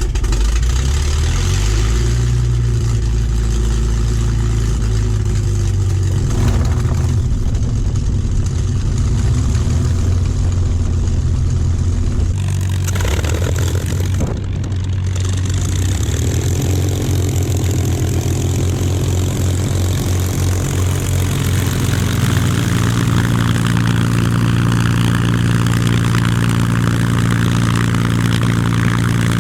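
Rolls-Royce/Packard Merlin V12 piston aero engines of a P-51 Mustang and a Spitfire running steadily; the engine note shifts partway through and sounds fuller and brighter toward the end.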